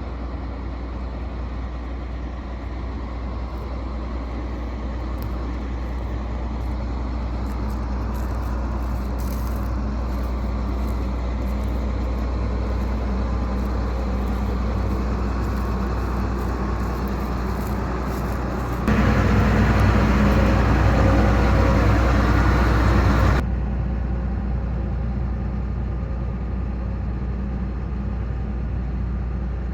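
A large engine running steadily with a low drone. About two-thirds of the way in it jumps louder for some four seconds, then drops back abruptly.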